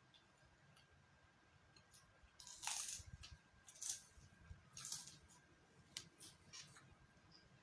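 Eating sounds during a mukbang: a few short, crisp crunches and clicks of food being bitten and handled, the loudest about three seconds in, over a faint low hum.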